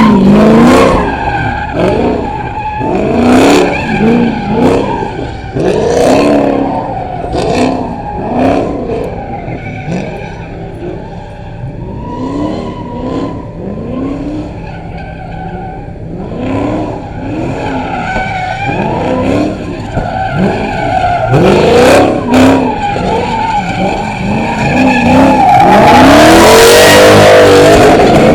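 Car engine revving up and down over and over while its tyres skid and squeal in a burnout, softer for a stretch in the middle, then building to a long, loud tyre screech near the end.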